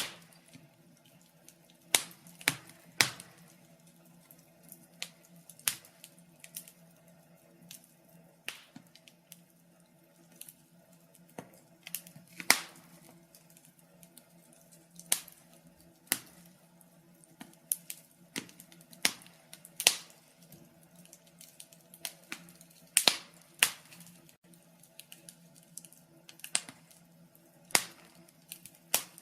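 Wood fire crackling: irregular sharp pops and snaps at uneven intervals, some louder than others, over a faint steady low hum.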